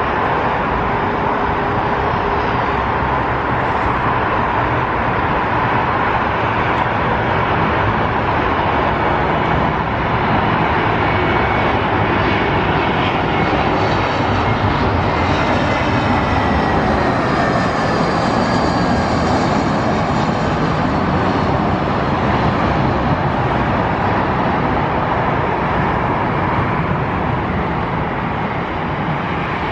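Jet airliner's engines roaring as it passes, loudest about halfway through, with a thin whine that slowly falls in pitch.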